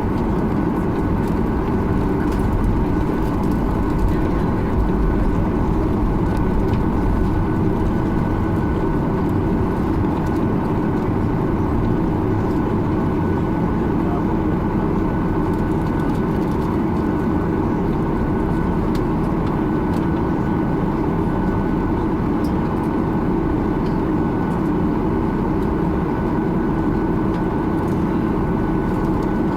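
Steady cabin drone inside a Boeing 737-800 after landing: its CFM56 engines running at idle, with the hum of the cabin air supply and a few faint steady tones.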